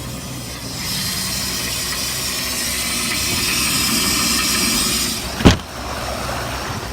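4.3-litre MerCruiser V6 inboard engine idling steadily under a constant hiss. A single sharp, loud knock comes about five and a half seconds in, and the noise eases off near the end.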